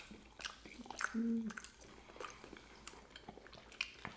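Close-miked chewing and lip smacking of fried chicken wings, a scatter of short wet clicks, with a brief voiced hum about a second in.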